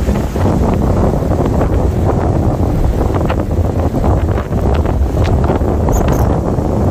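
Typhoon wind buffeting the microphone: a loud, steady, low rumbling roar of wind noise, with scattered short sharp ticks through it.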